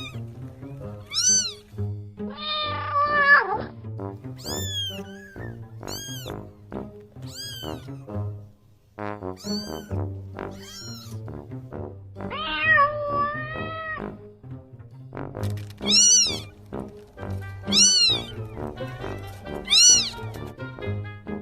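Cat meowing over background music: a run of short, high meows that rise and fall, one every second or two, with two longer, lower drawn-out meows, one a few seconds in and one about halfway through.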